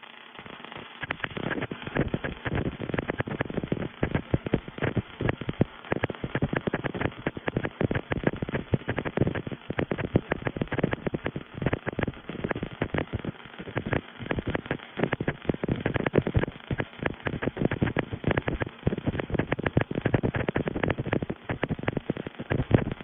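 Welding robot arc-welding a pipe elbow: the welding arc gives a dense, irregular crackle of sharp pops.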